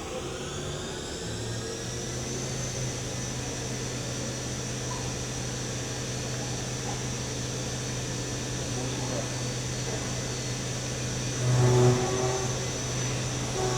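CNC machining center spindle spinning a half-inch end mill in an ER32 collet chuck at 7,500 RPM: a steady hum and a high whine that rises over the first two seconds and then holds steady. Near the end the end mill ramps into aluminum for a pocket cut, and the cutting comes in louder with a ringing tone.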